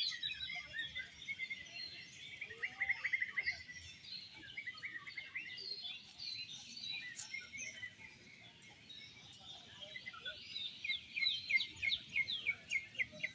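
Oriental magpie-robins (kacer) singing, a dense tangle of fast chirps, whistles and trills. Quick runs of rapidly repeated notes come about three seconds in and again over the last few seconds.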